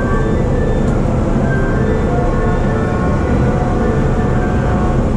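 JR East E233-series electric commuter train running along the line, heard from inside the car: a steady, loud rumble of wheels on rails, with brief faint high tones coming and going.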